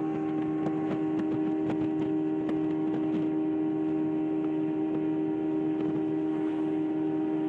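A steady, unchanging motor or electrical hum with a few faint clicks over it.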